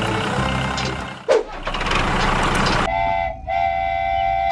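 Vehicle engine running, then a horn sounds twice near the end: a steady, level-pitched honk, briefly broken and then held.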